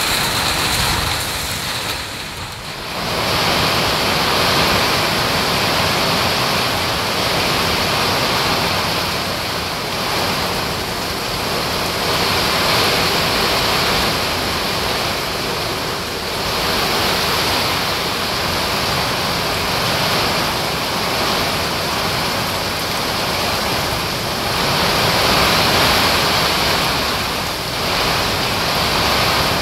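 Heavy rain pouring down in a steady, dense hiss, dipping briefly about two seconds in.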